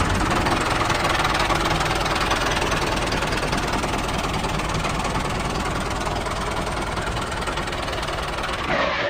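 A small engine running steadily with a fast, even knock, cutting off abruptly near the end.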